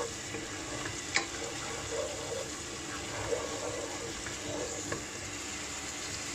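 Garlic-ginger paste sizzling in hot oil in a pot as it is stirred with a wooden spatula. A couple of sharp taps, about a second in and again about five seconds in.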